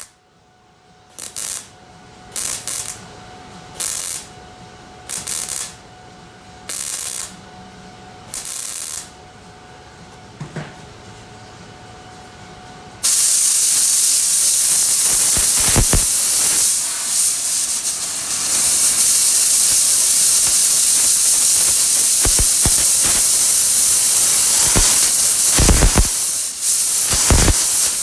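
Six short welding bursts about a second and a half apart: sheet-metal panel being stitch-welded in short tacks. About halfway through, a loud steady hiss of compressed air takes over, with a few brief breaks; the air is being blown on the panel to cool the weld zone.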